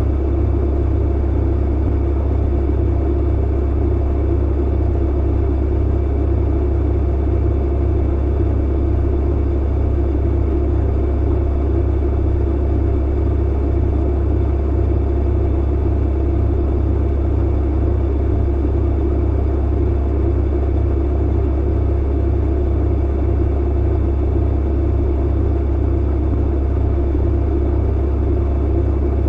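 Clothes dryer running: a steady low rumble and hum with a few faint steady tones above it, unchanging in level throughout.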